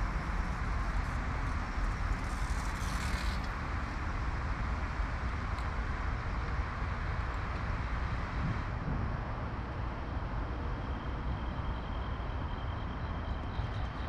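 Steady outdoor traffic noise, a continuous low rumble with hiss and no separate events standing out.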